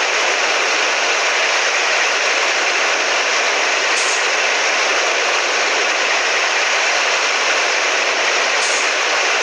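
Straight-piped Scania 113H truck's 11-litre six-cylinder diesel under way, a steady engine and road noise that holds level with no change in pitch.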